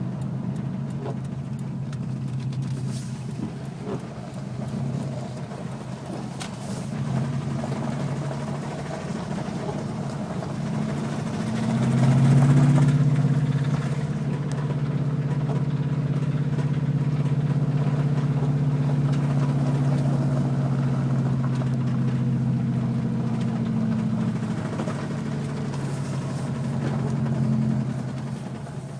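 2011 Subaru STI's turbocharged flat-four engine running with a rhythmic knock, its speed and loudness rising about twelve seconds in and then holding. The owner takes the knock on this bone-stock, low-mileage engine for a blown motor.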